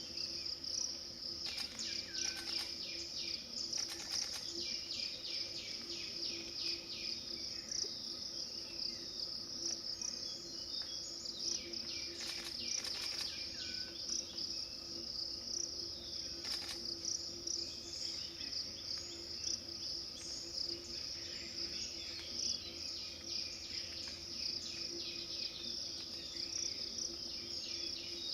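Crickets trilling steadily in a continuous high-pitched chorus. Several short, sharp clicking sounds stand out over it near the start, about midway and a few seconds later.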